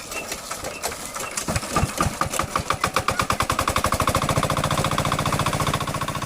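Small diesel water-pump engine starting: a few uneven knocks, then its firing beats come faster and faster until it settles into a steady, even run.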